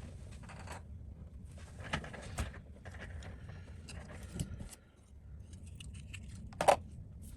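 Small repair tools and parts being handled on a work surface: scattered clicks, rustles and scrapes, with one sharp knock about six and a half seconds in, over a low steady hum.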